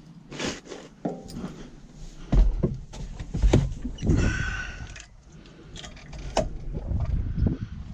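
Irregular clunks, clicks and rattles, with gusts of wind buffeting the microphone in deep rumbles that come and go.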